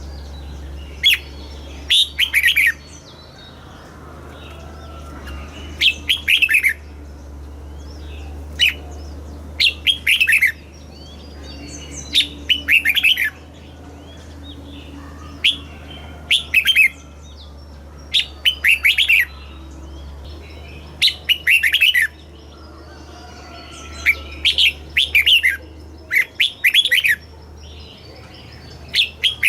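Red-whiskered bulbul singing: short, bright warbled phrases of a few quick notes, repeated every second or two, over a steady low hum.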